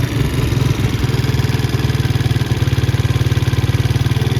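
Small single-cylinder engine of a 2011 Can-Am DS90 ATV running at a fast idle with a rapid, even putter, a little ragged in the first second. The owner suspects a clogged idle circuit and fuel starvation from a rusty tank, and takes the running as the freshly cleaned carburetor clearing itself out.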